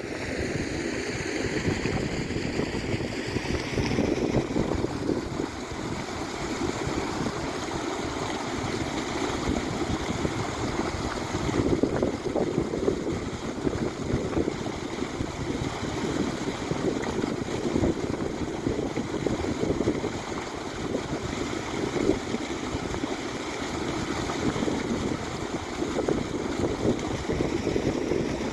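Tractor-trailer truck's engine running steadily while manoeuvring, heard as a continuous rumbling noise with wind on the microphone.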